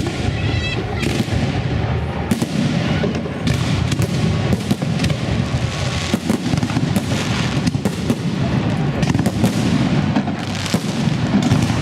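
Fireworks salute going off: a dense, continuous run of bangs and booms over a steady low rumble.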